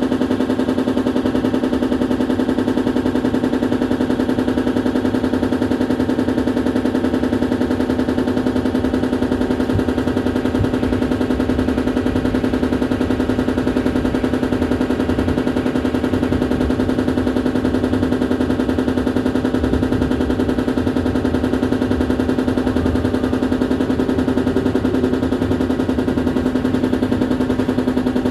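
Loud, steady buzzing rattle at one unchanging pitch inside a Paris Métro MP05 rubber-tyred train, a very fast pulsing drone over a low rumble: the abnormal noise the train makes on this run.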